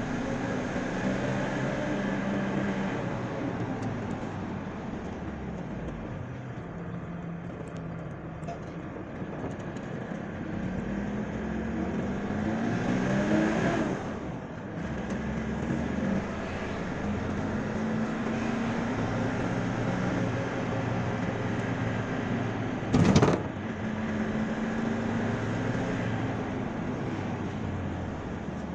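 Car engine and road noise heard from inside the cabin while driving, the engine pitch rising as it accelerates and dropping off about halfway through, then rising and falling again. A short loud knock a little before the end.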